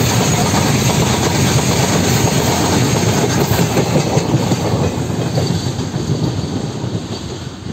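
Goods train wagons rolling past close by, their wheels clattering over the rail joints. The noise fades from about five seconds in as the brake van passes and the train draws away.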